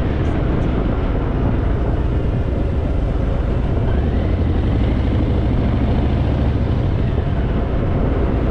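Harley-Davidson Fat Boy's V-twin engine running steadily at road speed, with a rush of wind and road noise over it.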